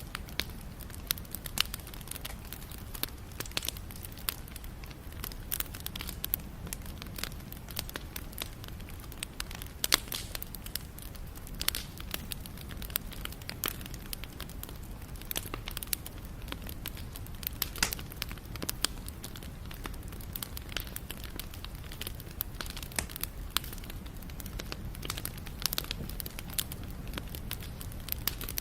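Wood fire burning, with frequent sharp, irregular crackles and pops over a low steady rumble of flame.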